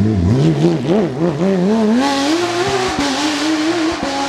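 Porsche 997 GT3 rally car's 3.6-litre flat-six engine, its revs dipping and rising in quick blips for the first two seconds, then climbing steadily under acceleration with a rush of noise joining in.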